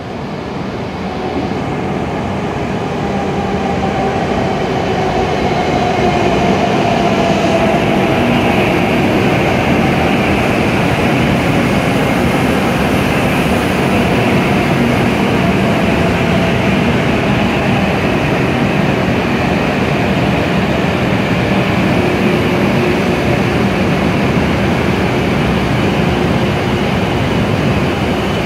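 W7 series Shinkansen train pulling into the platform and slowing, its running noise building over the first couple of seconds and then holding steady and loud. A faint whine falls in pitch a few seconds in as the train brakes.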